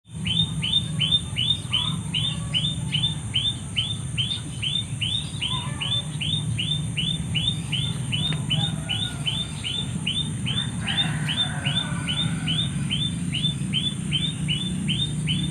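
A bird calling a fast, even series of short chirps, each note dropping in pitch, about two to three a second without a break, over a steady high-pitched hiss.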